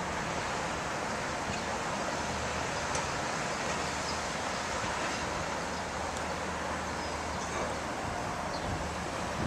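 Steady outdoor background noise: an even hiss like wind, over a faint low hum.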